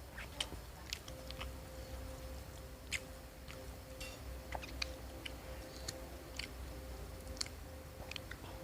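Close-up chewing of a fried, breadcrumbed risole: irregular small crunches and wet mouth clicks. A faint steady hum comes in about a second in.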